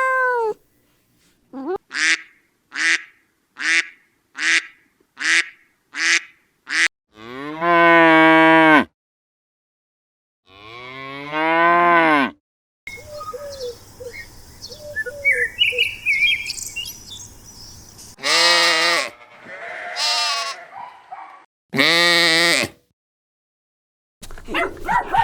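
Cows mooing, several long, low calls in separate clips. Before them comes a quick series of about eight short calls.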